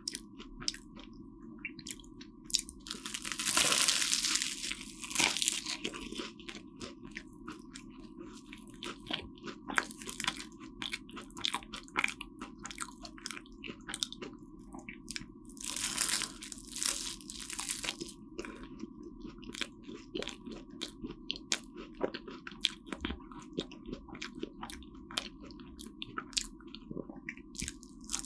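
Biting into and chewing a flaky cream-filled croissant: crisp crackling crunches of the pastry layers with wet mouth clicks of chewing. The loudest crunches come about three seconds in and again about sixteen seconds in.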